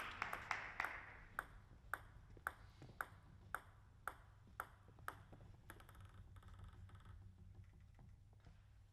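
Table tennis ball bounced over and over, sharp light clicks at an even pace of about two a second, fading slightly over the last few seconds.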